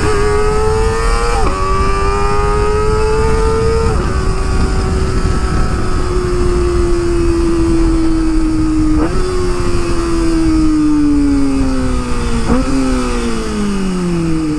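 A Kawasaki ZX25R's 250 cc inline-four with an Akrapovic exhaust, ridden on part throttle. Its pitch dips briefly at gear changes about a second and a half and four seconds in. It then slides slowly down through the second half, with short sharp rises about nine and twelve and a half seconds in as it is shifted down.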